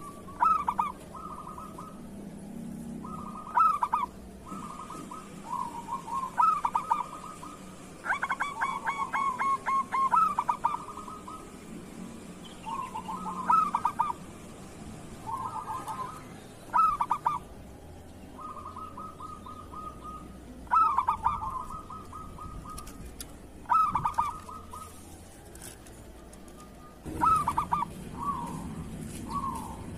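Zebra doves (perkutut) cooing: short rhythmic phrases of trilled coos repeated every couple of seconds, one with a fast stuttering run of notes partway through.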